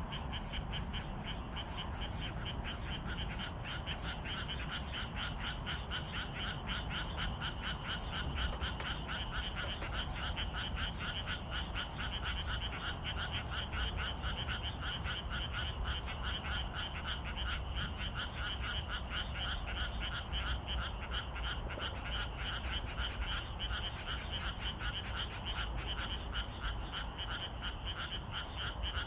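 A dense chorus of frogs calling: a steady, rapid pulsing croak with no break, over a steady low rumble.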